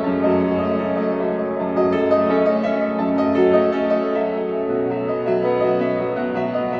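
Solo piano playing a slow, sustained, continuous piece.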